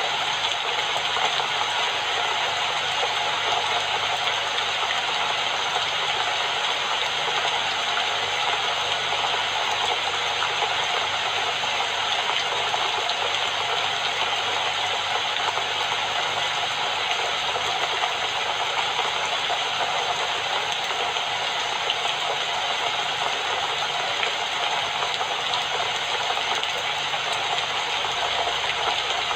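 Steady rain falling, an even hiss that does not change or pause.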